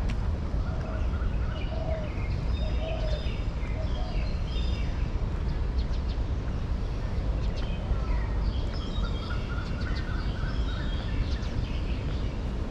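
Several birds chirping and trilling, in many short calls, over a steady low background rumble.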